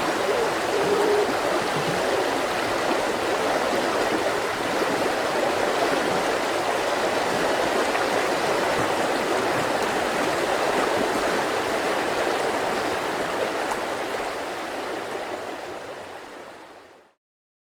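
Mountain river flowing with a steady rushing sound, fading out over the last few seconds to silence.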